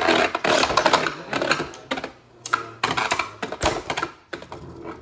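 Beyblade spinning tops clashing in a stadium: a dense, rapid rattle of hard knocks and clicks as they collide and skid against each other, thinning out near the end.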